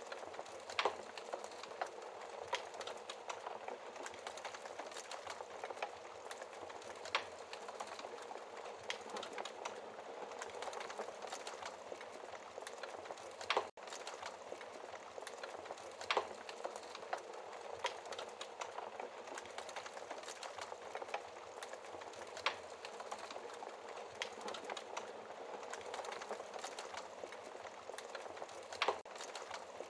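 Wood fire burning in a fireplace: a steady crackling hiss with sharp pops every few seconds.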